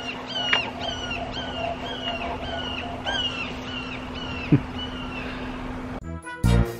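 A bird calling over and over: about a dozen short, clear calls that each drop in pitch, roughly two a second, stopping about five seconds in, over a steady low hum. Music starts near the end.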